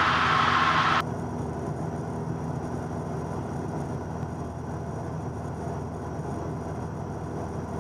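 Steady drone of a 1977 Cessna 172N's four-cylinder Lycoming engine and propeller in cruise, heard from inside the cabin. A louder hiss stops suddenly about a second in.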